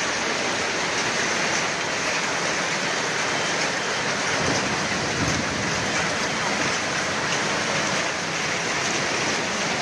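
Heavy hail falling, a dense, steady hiss of countless small impacts.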